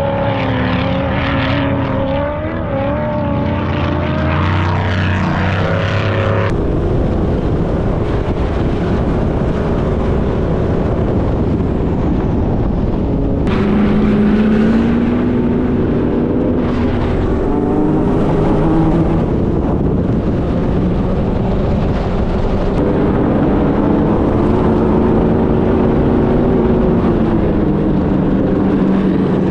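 Off-road sand car engine working hard under load on steep dune climbs, its revs rising and falling over a steady rush of noise. The sound changes abruptly about six seconds in and twice more later, as if cutting between clips.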